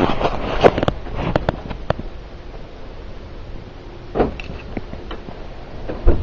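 Sounds inside a car: a cluster of sharp clicks and knocks over rustling in the first two seconds, then steady low cabin noise broken by two single thumps, one near the middle and one near the end.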